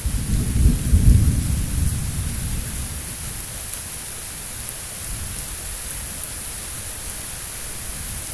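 A thunderclap: a sudden low rumble of thunder that peaks about a second in and dies away over the next few seconds, over the steady hiss of heavy rain.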